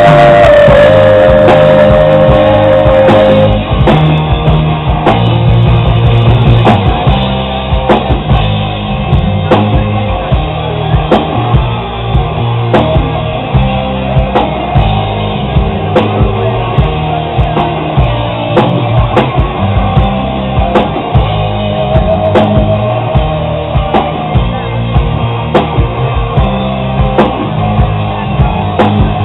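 Live rock band playing: a sustained guitar passage gives way, about three and a half seconds in, to a steady drum beat under bass and guitar.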